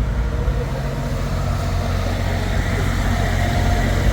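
A steady low engine hum, like a vehicle idling close by, with faint voices in the background.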